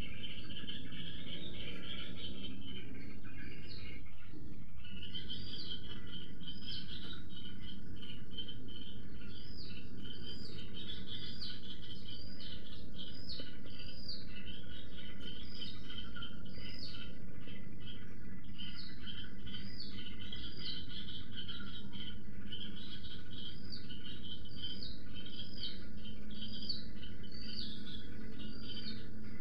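Wild songbirds calling together: many short, high notes repeated in quick succession, each rising and then dropping, over a steady low background noise. A denser chatter comes at the start.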